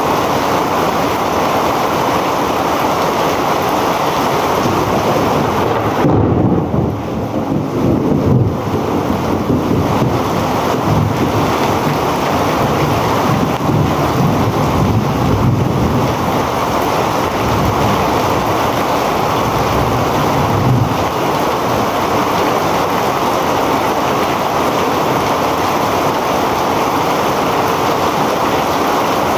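Heavy rain pouring steadily. From about six seconds in until about twenty seconds in, a low, uneven rumble sounds under the rain.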